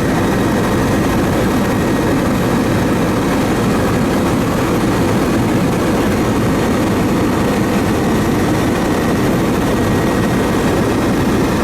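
Steady, loud drone of a sightseeing aircraft in flight, engine and airflow noise heard from on board.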